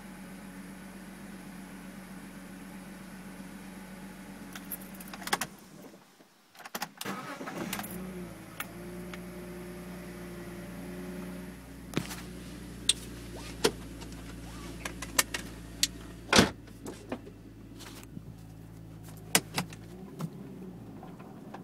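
BMW Z4 engine idling roughly. About six seconds in it cuts out briefly, then restarts and settles back to idle. Later, sharp irregular clicks sound over the idle.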